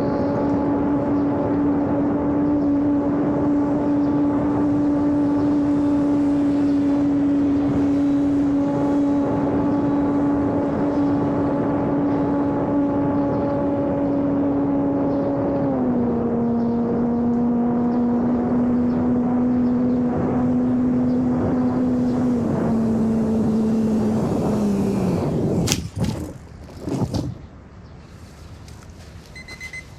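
Electric RC airplane's brushless motor (2212 1000KV) and propeller (5030) running with a steady hum. Its pitch steps down twice as the throttle is eased back, then falls away and stops. A couple of sharp scraping thumps follow near the end, as the plane touches down in a failed landing.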